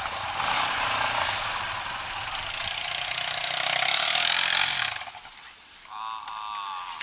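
Off-road motorcycle engine revving hard under load, with a loud hiss of effort that builds and then drops away sharply about five seconds in.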